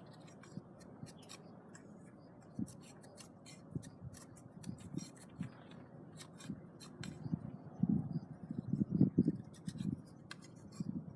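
A knife scraping the green bark off a wooden branch in short, irregular strokes, with a run of louder scrapes and knocks about eight to ten seconds in.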